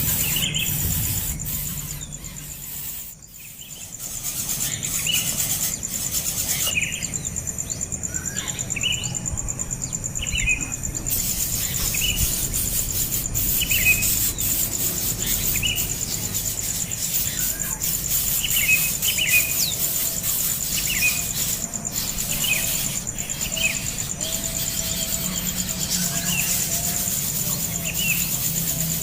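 Bird chirping in short repeated calls, one every second or two, over a steady high-pitched insect drone.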